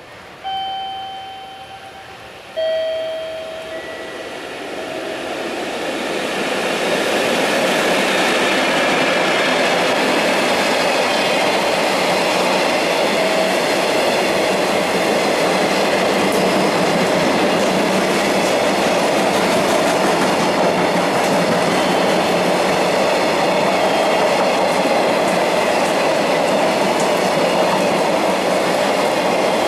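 Two short whistle blasts from a JR Freight EF65 electric locomotive, the second lower in pitch, as it passes. Then a long train of container wagons runs by with a loud, steady clatter of wheels over the rail joints.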